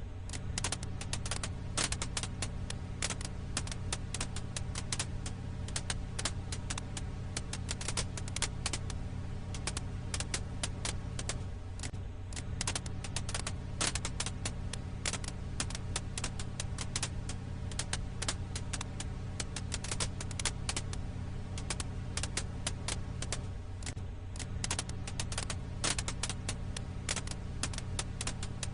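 Firewood crackling in a campfire: dense, irregular sharp pops and snaps over a steady low rumble.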